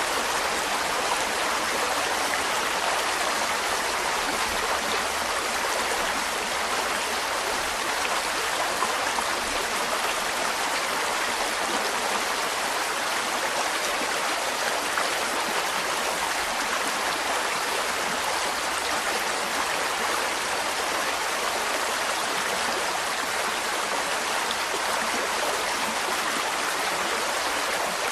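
Mountain stream running over rocks: a steady, even rush and babble of water.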